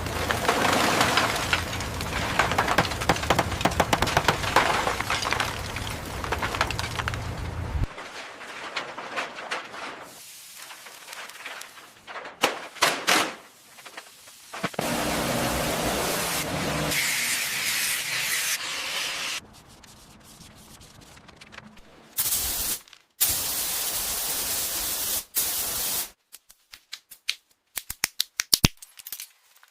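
A string of short vehicle-restoration work sounds cut one after another: a steady spraying hiss and sanding, each segment starting and stopping abruptly, with a run of sharp clicks near the end.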